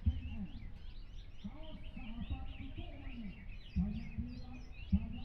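Many caged songbirds, cucak ijo (greater green leafbirds), singing at once in quick overlapping chirps and trills. Underneath is a low murmur of voices, with a few dull thumps.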